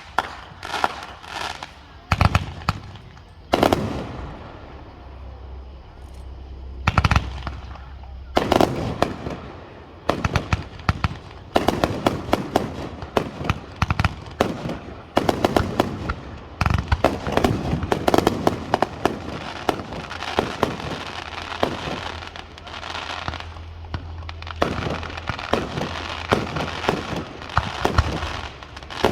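Aerial fireworks going off: separate loud bangs at first, then from about twelve seconds in a dense barrage of rapid pops and crackles.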